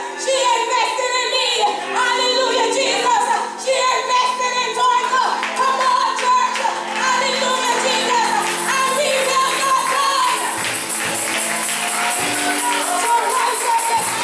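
Church gospel music: singing over sustained accompaniment, with a tambourine shaken in a steady rhythm that grows prominent about halfway through.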